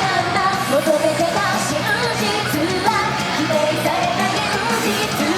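Idol group singing a pop song live over loud backing music, amplified through a PA.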